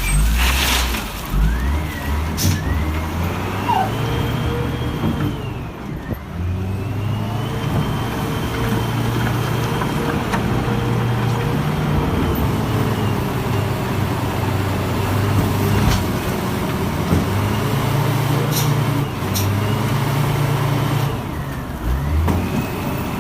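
Heavy vehicle engine sound revving up and down repeatedly, its pitch rising, holding and falling several times, with a few sharp clicks or knocks in the first second and again near the end.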